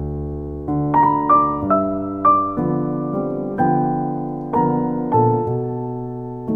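Solo piano music: a slow melody of single struck notes, each ringing away, over held low bass notes.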